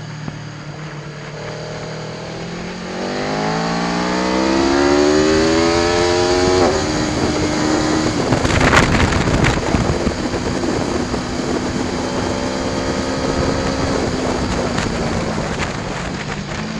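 Aprilia Tuono V4 1100 Factory's V4 engine under hard acceleration, its pitch climbing for a few seconds before a sudden drop at a gear change, then holding a steady high pitch under loud wind rush before falling off near the end.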